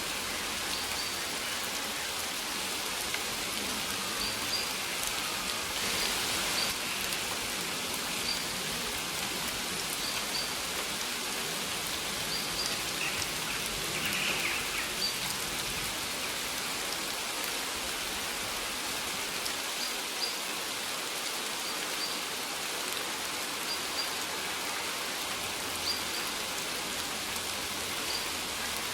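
Steady rain falling, an even hiss of drops on surfaces. Short high bird chirps repeat every second or two over it.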